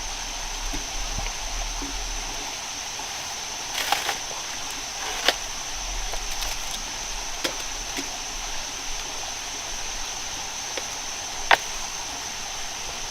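Steady rushing like a stream, with a thin high whine held throughout. A few sharp knocks or clicks stand out over it, the loudest near the end.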